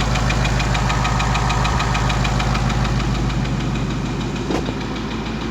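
2019 Mustang GT's 5.0 Coyote V8 running with its supercharger and accessory belt off, with a rapid, regular knocking from inside the engine. The owner suspects rod knock.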